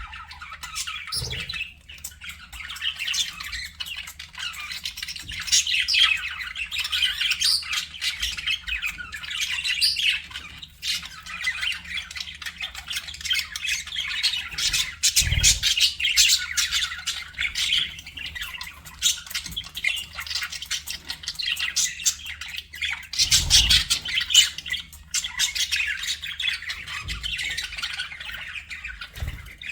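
A flock of budgerigars chattering and warbling nonstop, many quick chirps and squawks overlapping. A few soft low thuds come through about a second in, near the middle, and toward the end.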